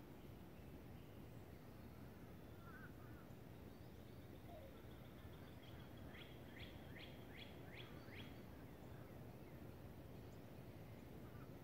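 Near silence outdoors with a low steady background hum; a distant songbird gives a run of about six quick downward-slurred whistles starting about six seconds in, after a faint single chirp earlier.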